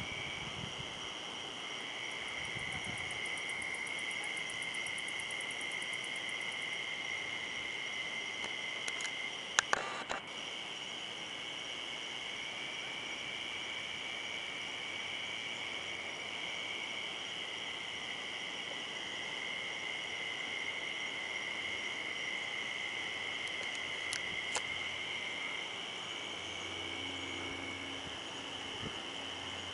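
Steady high-pitched chorus of calling insects, like crickets, with a couple of sharp clicks about a third of the way through.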